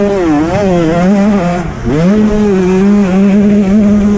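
KTM 125 two-stroke motocross engine heard on board, revs rising and falling quickly over the first second and a half, dropping off briefly, then held high and fairly steady under throttle.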